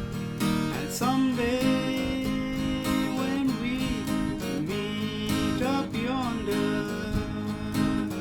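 Acoustic guitar strummed steadily in an instrumental break. From about a second in, a melody line that slides and wavers in pitch plays over it.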